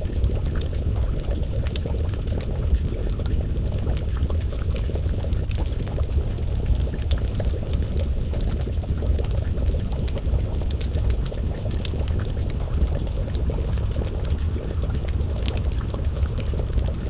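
Crackling wood fire, with many small irregular pops and snaps over a steady low rumble.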